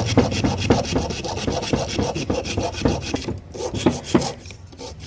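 Burnt field coil of a Bajaj mixer grinder being cut apart by hand for rewinding: quick repeated rasping, scraping strokes that grow weaker after about three seconds.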